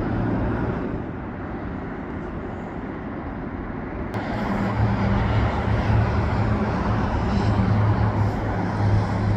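Airliner on final approach passing overhead, a steady engine rumble that grows louder about four seconds in, with a low hum underneath.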